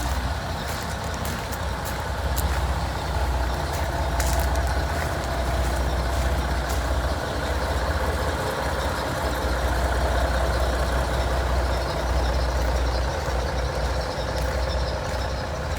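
A steady low engine rumble with a faint steady tone above it and a few scattered clicks.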